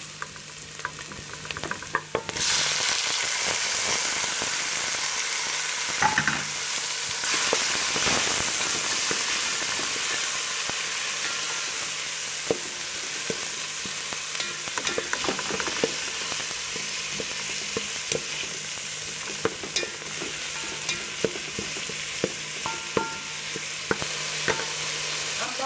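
Diced tomatoes sizzling in hot oil with browned onions and garlic in a metal pot, the hiss jumping up suddenly about two seconds in as the tomatoes hit the oil. A spatula scrapes and taps against the pot as they are stirred.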